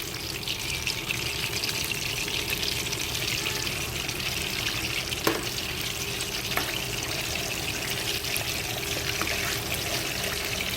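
Chicken pieces frying in hot oil with halved onions: a steady sizzle with scattered crackles and a couple of sharper pops.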